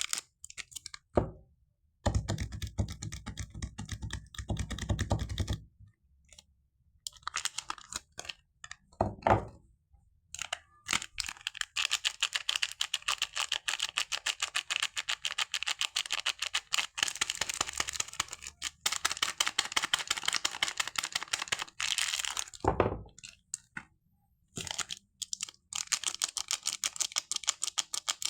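Dry soap foam crackling and clicking in fast, dense runs as it is pressed and peeled, broken by short pauses and a few soft thuds.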